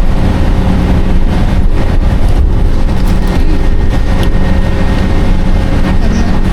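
City bus running, heard from inside the cabin: a loud, steady low rumble of engine and road noise with a constant hum.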